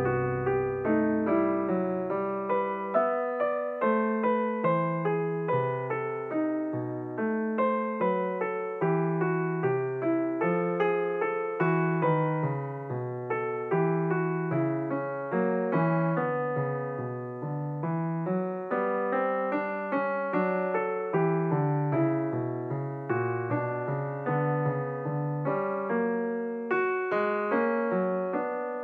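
Background piano music: a continuous flow of notes, each struck and then fading.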